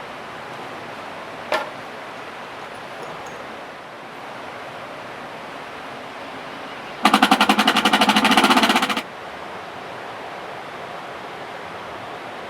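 A loud two-second burst of fast, evenly spaced rattling, over a steady rushing background, with a single sharp click about a second and a half in.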